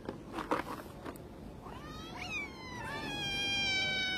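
Domestic cat meowing: a short meow that rises and falls about two seconds in, then one long drawn-out yowl holding a steady pitch.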